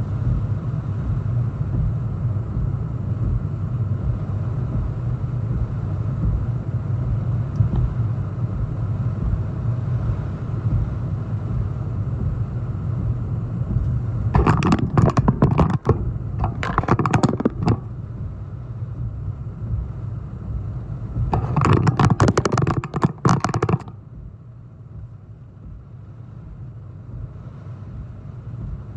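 Strong hurricane wind buffeting the microphone as a steady low rumble, with three louder gusts of rushing noise in the middle stretch, the last one the longest; the wind eases near the end.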